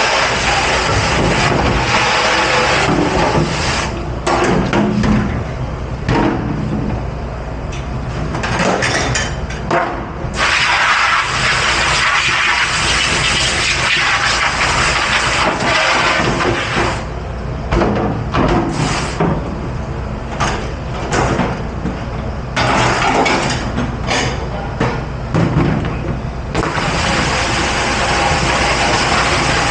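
Commercial dish pit at work: a steady machine hum under long stretches of hissing water spray, broken by short clatters and knocks of dishes and racks.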